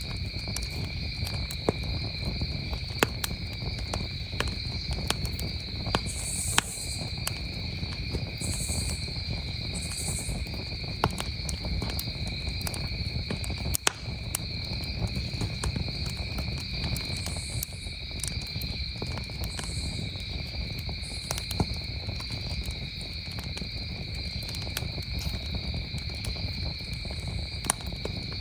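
Wood campfire crackling, with sharp pops scattered irregularly throughout, over the steady high-pitched chirring of crickets.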